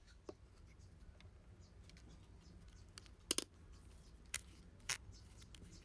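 A few sharp clicks and taps from small hard objects being handled. The loudest is a quick double click a little past the middle, with two more single clicks about a second later.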